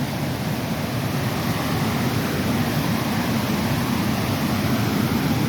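Steady rushing roar of a rain-flooded creek, running hard.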